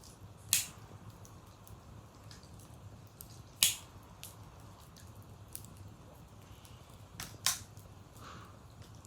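Wood fire crackling: three sharp pops stand out, about half a second in, in the middle and near the end, among fainter ticks of burning wood.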